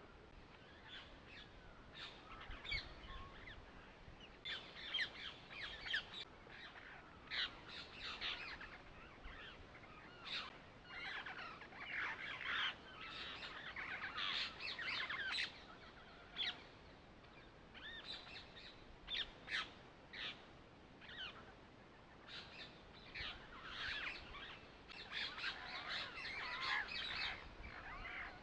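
Birds chirping and calling, many short overlapping calls.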